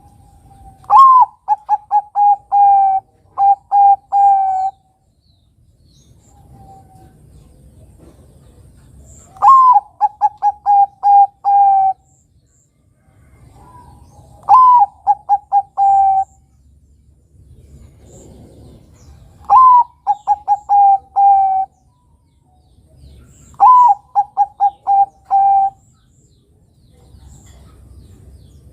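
A young Bangkok-type perkutut (zebra dove) cooing. It sings five phrases a few seconds apart, each a higher opening note followed by a quick run of about six to eight short staccato coos.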